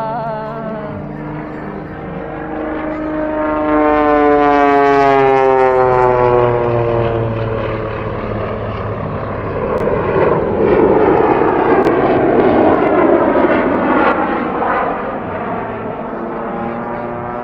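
Propeller-driven aerobatic airplane flying past, its engine note falling in pitch as it goes by. About ten seconds in, a louder, rougher engine noise rises and then fades.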